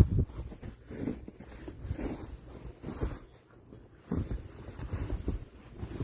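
Snow being shoveled: irregular dull thuds and scrapes of a shovel in heavy snow, about one a second.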